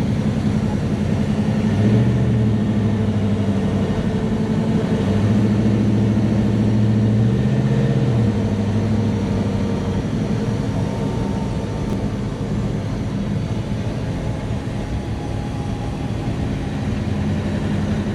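Big-block V8 of a 1967 Chevelle drag car running through its exhaust at low, steady revs, with the note rising slightly a few times.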